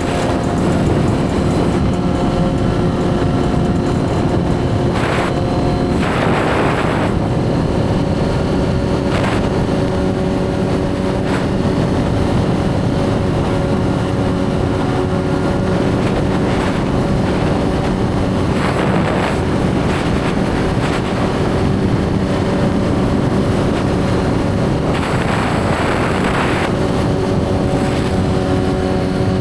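Suzuki GSX-R1000 inline-four engine running at a steady cruise, its note holding nearly constant. Several brief rushes of noise pass over it.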